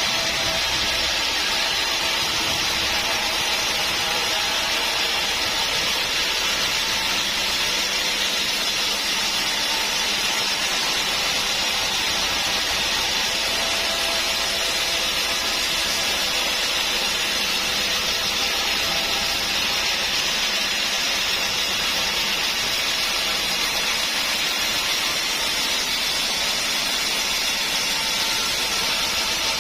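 Sawmill saw running steadily through a hard acacia stump: an unbroken, even hiss with a faint machine hum beneath.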